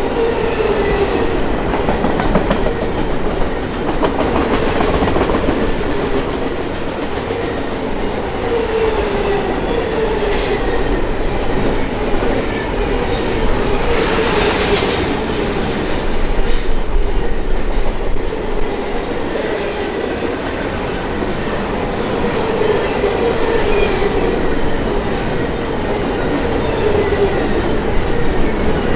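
Railway cars rolling past steadily, wheels clacking over rail joints, with a wavering metallic whine from the wheels on the rails underneath.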